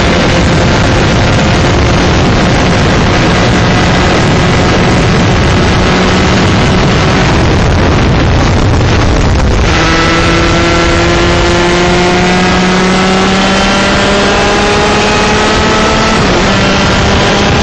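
125cc two-stroke shifter kart engine running hard, its pitch climbing slowly, with wind noise on the onboard microphone. About seven seconds in the note turns into a rough, noisy rasp. Near the ten-second mark the pitch drops suddenly and then climbs steadily again.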